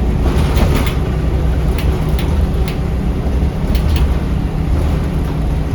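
Scania L94UB bus's diesel engine and drivetrain running, heard from inside the bus as a steady low rumble. Short rattles and ticks come through now and then.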